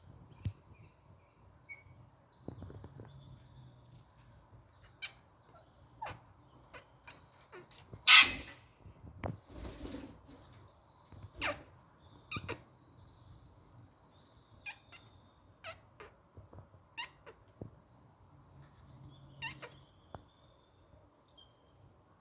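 Sun conures calling: scattered short chirps and sharp clicks, with one loud, harsh squawk about eight seconds in.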